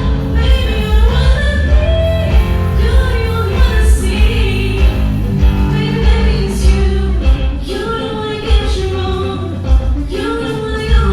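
Loud live music with a singer over a heavy, pulsing bass beat, as heard from backstage at a stage show.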